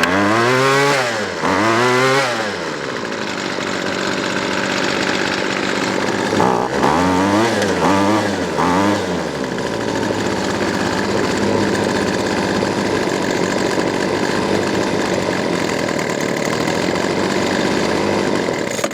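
Weedeater Featherlite SST25 string trimmer's 25cc two-stroke engine running, revved up and down twice at the start and three quick times about seven seconds in, then running steadily while the low-speed carburetor screw is adjusted. The idle stays high enough that the cutting head keeps spinning.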